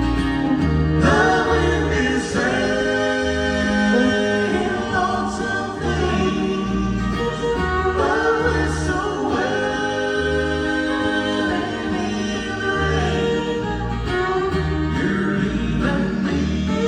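Bluegrass band playing live, several voices singing in close harmony over a steady alternating bass line.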